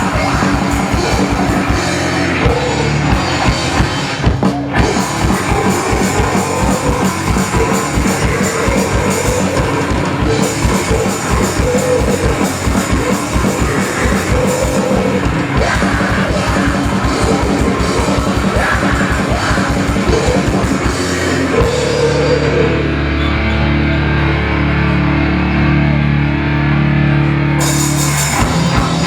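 Loud rock band playing live, with fast drumming and distorted electric guitars. About 22 seconds in, the drums stop and held distorted chords ring for several seconds before the full band comes back in near the end.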